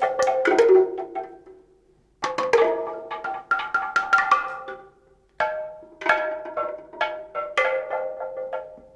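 Reconstructed prehistoric music: struck pitched percussion played in quick clusters of taps, each note ringing briefly. The playing fades out twice, about two seconds in and about five seconds in, then starts again.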